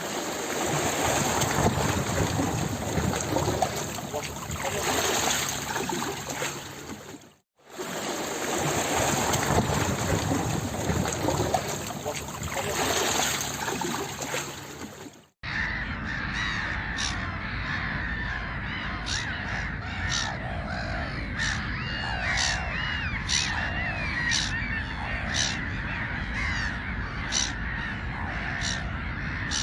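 A loud, even rushing noise, broken by a brief cut, then, from about halfway, a flock of birds calling: sharp calls repeating about once a second over busy chattering.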